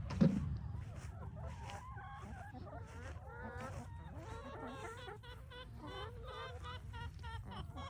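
A flock of chickens clucking, many short overlapping calls, with a sharp thump just after the start.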